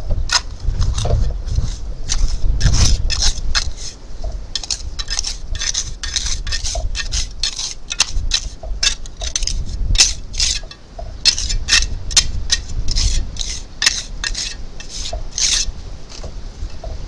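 Repeated short scraping strokes of a hand tool on masonry, some in quick runs, irregularly spaced.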